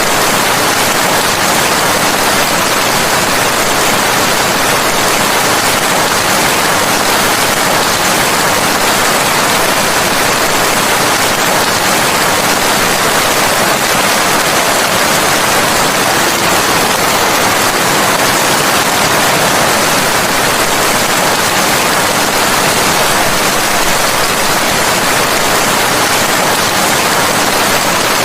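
Steady, dense rain falling, heard as an even hiss with no distinct drops, thunder or changes.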